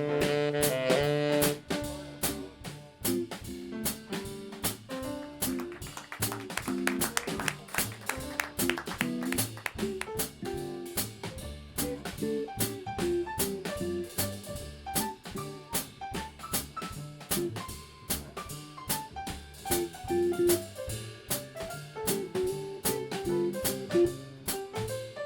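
Small jazz band playing live: drum kit, bass, piano, guitar and tenor saxophone. A loud held chord ends about a second and a half in, then the drums and bass keep a steady beat under a melodic line.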